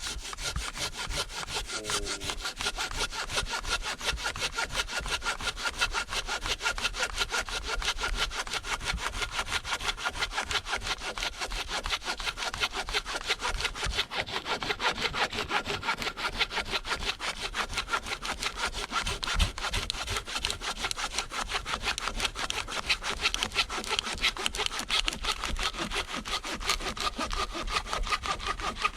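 Silky Zubat curved pull saw cutting through a fallen tree trunk by hand, in quick, even back-and-forth strokes that keep up without a break.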